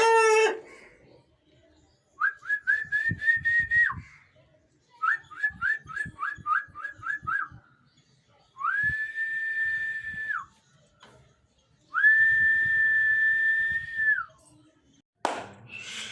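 Whistling: two quick runs of short rising notes, then two long held notes at one steady pitch, each with a rising start and a falling end.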